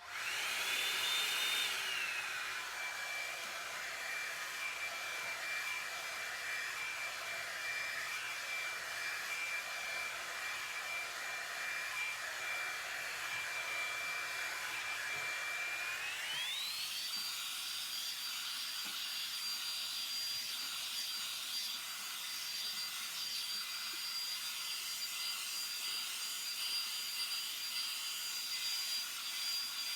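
Revlon One-Step paddle-brush hair dryer switched on and running: a steady rush of air with a motor whine that settles after a second or two, then rises smoothly to a higher pitch about halfway through and holds there.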